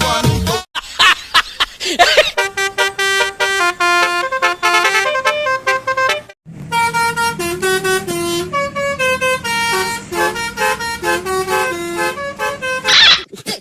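Basuri telolet bus horn playing a tune: a quick run of short horn notes stepping up and down in pitch, broken by a brief pause about six seconds in.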